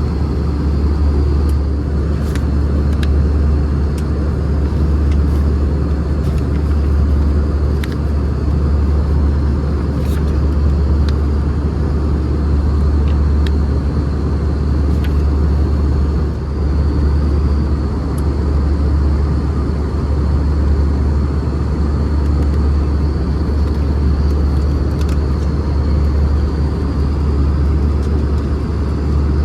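Steady cabin drone inside an Airbus A320: engine and airflow noise with a strong low hum and a faint high whine, plus a few light clicks.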